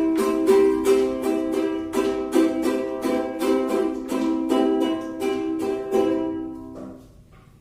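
Small ukulele-like string instrument strummed in a steady, quick rhythm, its chords ringing, until the playing stops about seven seconds in.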